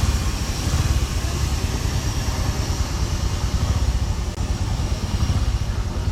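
Wind buffeting the microphone: a heavy, fluttering low rumble with an even hiss over it.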